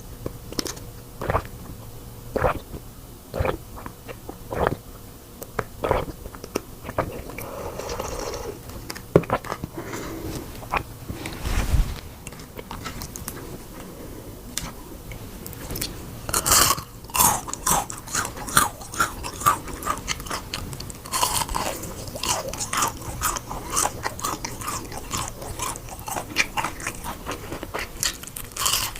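A person biting and chewing crunchy food up close, with wet, crackly crunches. The bites come about once a second at first, then turn into dense, rapid crunching from about halfway through.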